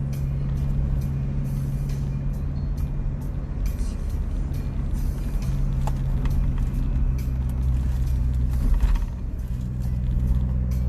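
Motor vehicle engine running steadily on the move, a low even drone with scattered small clicks and rattles, easing off briefly near the end.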